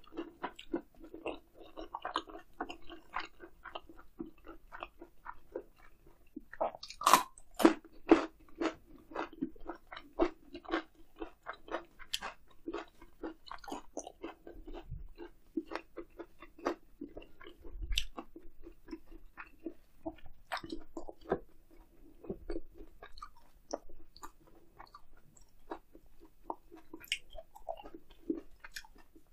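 Close-miked chewing and biting of grilled eel: a steady run of small wet mouth clicks and crunches, with a few louder crisp bites about seven seconds in.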